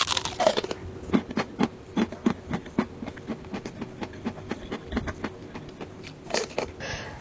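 A person chewing a mouthful of lettuce wrap close to the microphone: a run of crisp crunches, about three a second.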